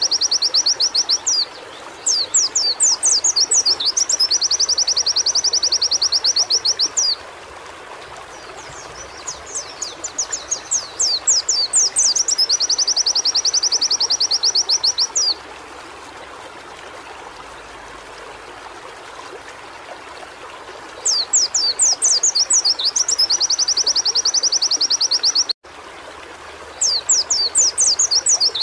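Pleci (white-eye, Zosterops) singing in repeated phrases. Each is a quick run of high down-slurred notes running into a fast, high, buzzing trill held for several seconds, with short pauses of faint steady background noise between phrases. The sound cuts out for an instant about 25 seconds in.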